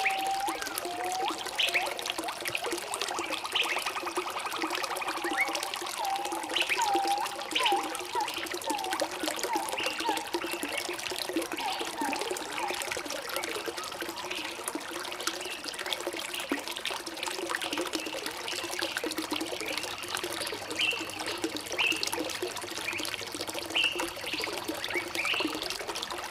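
Trickling, gurgling water running steadily, with small birds chirping over it in short calls and quick falling notes, and a buzzy trill a few seconds in.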